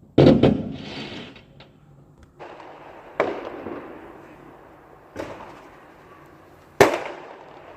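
Fireworks exploding: a quick double bang near the start, then single bangs about three, five and seven seconds in, each echoing away; the first and last are the loudest.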